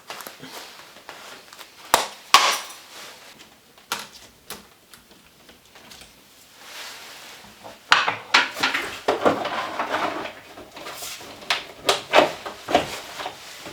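Scattered knocks and clicks of tools and building materials being handled, turning into a busier run of clattering and knocking about eight seconds in.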